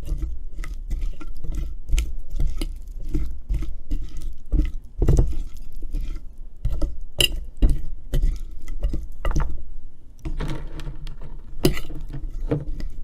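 Seasoned cut potatoes being tossed in a bowl: irregular clinks and knocks against the bowl with dull thumps, briefly pausing about ten seconds in.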